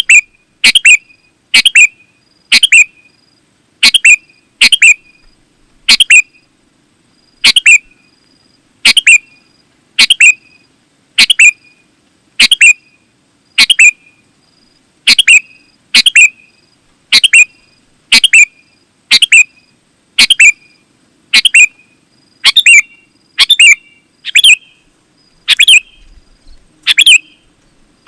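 Sooty-headed bulbul (kutilang) calling: short, loud chirping notes repeated about once a second, now and then in quick pairs.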